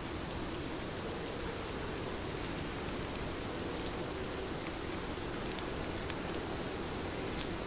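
Heavy rain falling steadily, with scattered sharper drop hits ticking through it.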